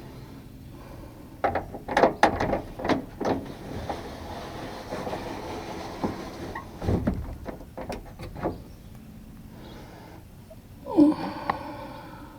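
Knocks, clicks and rattles of hand work inside a 1992 Nissan pickup's door, parts and tools clattering against the metal door shell, then a brief sound falling in pitch near the end.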